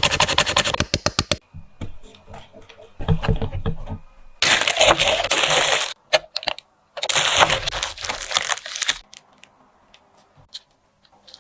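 Crunchy snack and its packaging being handled: a fast run of crackling clicks at the start that slows and stops, then two long loud bursts of crinkling and crunching a few seconds apart.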